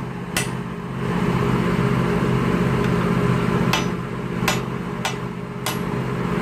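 Sharp taps of a hammer or metal tool on a Mazda rotary engine oil injector as it is worked apart: one just after the start, then four more spaced about half a second apart near the end. A steady low hum runs underneath.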